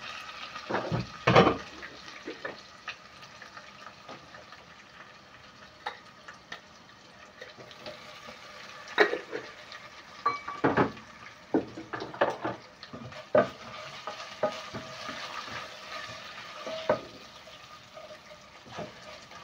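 Garlic and ginger sizzling in hot oil in a cooking pot while it is stirred. A metal spoon scrapes and knocks against the pot now and then, loudest about a second in and several times in the middle.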